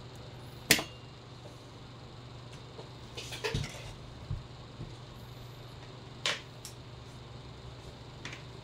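A few sharp clicks and light knocks at irregular intervals, the loudest about a second in and a short cluster near the middle, over a steady low hum.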